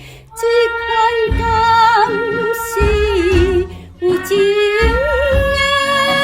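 A woman singing a Taiwanese-language song in long, held notes with vibrato, over a band accompaniment from an old vinyl record with bass notes underneath.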